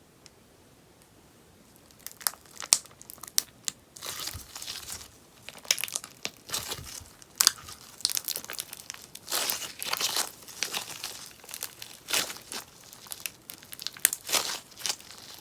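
Sponge slime being squeezed and stretched, crackling and popping in sharp snaps and bursts that start about two seconds in.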